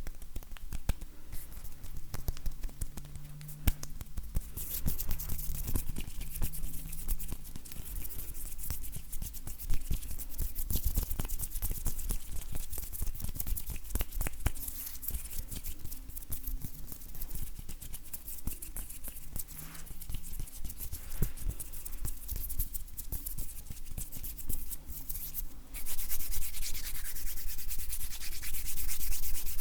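Dry bare hands rubbing and brushing together close to the microphone, with many small skin crackles and light taps. About 26 seconds in, the rubbing turns louder and continuous.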